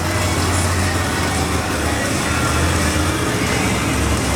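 Monster truck engine running loud and steady, a constant low drone under a wide wash of noise.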